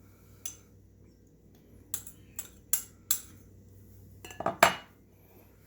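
Kitchen utensils clinking and knocking against bowls and dishes while marinade ingredients are added: a handful of separate sharp clinks, with the loudest cluster near the end.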